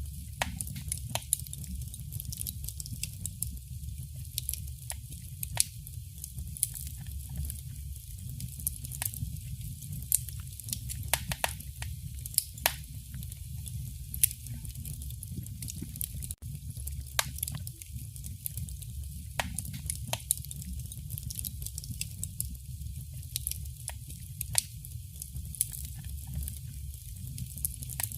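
Wood fire burning in a fireplace: irregular sharp crackles and pops over a steady low rumble of the flames, with one momentary gap about halfway through.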